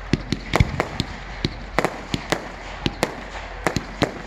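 Fireworks going off: an irregular string of sharp bangs and pops, several a second, the strongest about half a second in.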